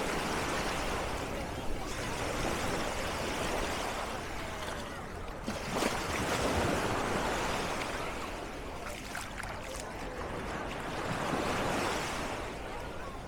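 Small sea waves washing onto a beach, the surf swelling and fading about every five seconds.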